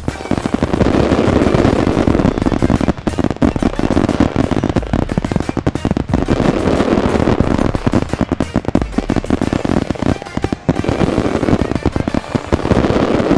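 A large fireworks display: a continuous, rapid barrage of loud bangs and crackles.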